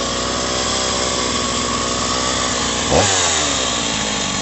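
Two-stroke chainsaw engine running steadily off the cut, with a quick throttle blip about three seconds in.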